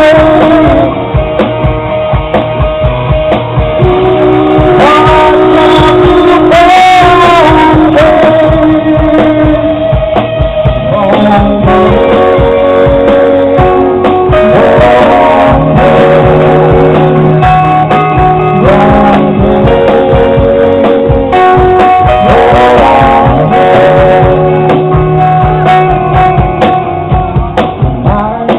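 Live progressive rock band playing: electric guitars and drums with a voice singing, the lines sliding between held notes.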